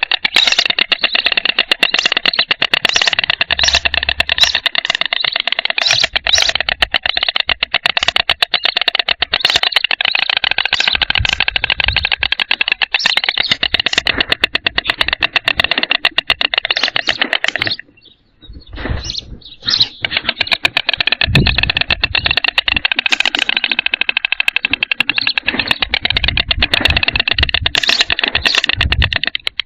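White storks bill-clattering: a rapid, dry rattle of snapping beaks that goes on and on, breaking off briefly about eighteen seconds in before starting again.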